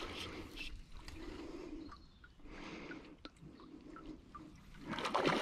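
Irregular splashing and sloshing of water around a small fishing boat, with a single sharp knock about three seconds in.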